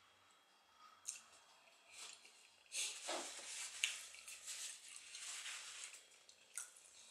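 Close-miked chewing and wet mouth sounds of a person eating soft French toast, with a few sharp clicks. The chewing is loudest from about three to six seconds in.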